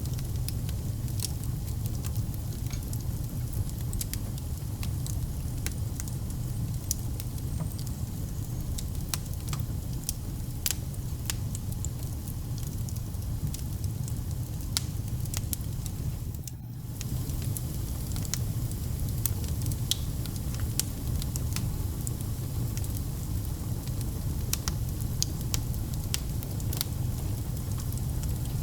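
Wood fire burning in a fireplace: a steady low rumble with frequent sharp crackles and pops scattered irregularly through it. The sound dips momentarily a little past halfway.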